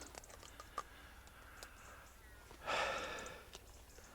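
A person's long breathy sigh, or exhale, about two-thirds of the way in. Around it, quiet with a few faint clicks.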